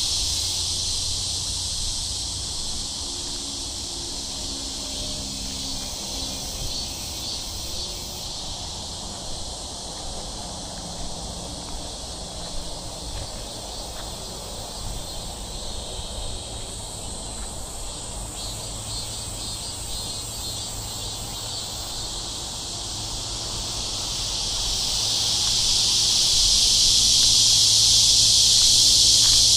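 Chorus of cicadas, a steady high-pitched droning buzz that swells louder over the last several seconds.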